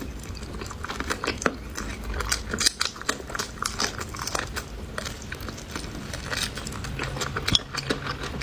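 A person chewing pig's tail up close, with many short, irregular mouth clicks and smacks.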